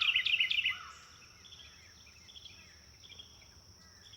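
Bird chirping: a quick run of high chirps that stops about a second in, followed by faint scattered chirps over quiet outdoor ambience.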